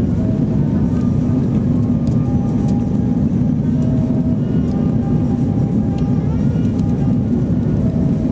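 Airliner cabin noise in flight: a steady, loud, low rumble of engines and rushing air.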